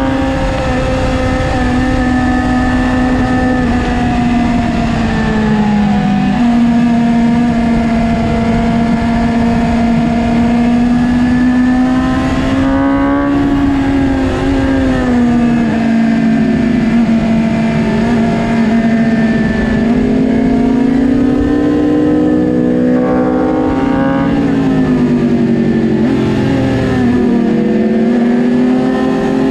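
2022 BMW S1000RR's 999 cc inline-four engine running on a track warm-up lap, its note mostly steady and dipping and rising again a few times in the later part as the rider rolls off and back on the throttle through corners, with wind rushing over the camera.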